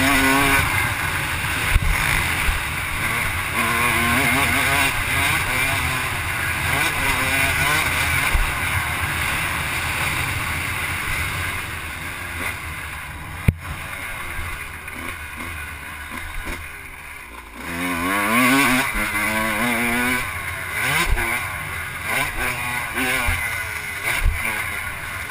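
Off-road vehicle engine revving up and down repeatedly as it is ridden around a motocross track, with the pitch climbing and dropping with the throttle. The engine backs off about sixteen seconds in, then climbs hard again. There is one sharp click about halfway through.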